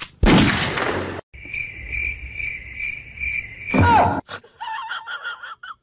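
High, cricket-like chirping, a steady tone pulsing about two to three times a second. A loud rushing noise comes before it near the start, and a loud short burst with a falling whistle cuts it off about four seconds in.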